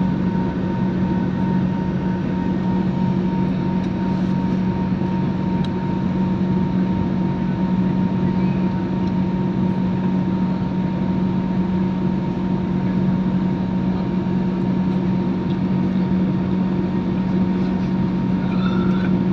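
Airliner cabin noise during the climb after takeoff: the jet engines' steady drone with a low hum and a thin higher whine, unchanging throughout.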